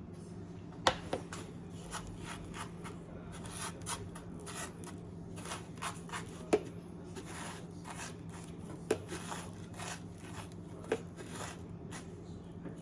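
Handling sounds of a glass beer mug's rim being rubbed into chili seasoning on a plate: soft gritty scraping broken by a few sharp clinks of glass on the plate.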